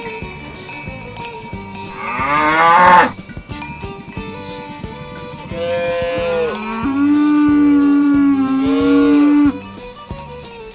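Cattle mooing twice: a short call rising in pitch about two seconds in, then a long, steady moo of about four seconds. Background music with a steady beat plays underneath.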